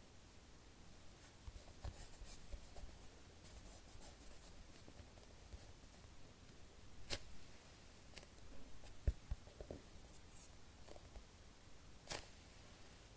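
Soft foam squishy toys squeezed and handled by fingers: faint rubbing and rustling with scattered small clicks, and a few sharper ticks about halfway and near the end.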